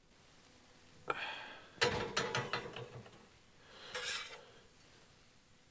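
Small objects being handled: a sudden clack about a second in, a quick run of clicks and light knocks, then a brief rustle near the end.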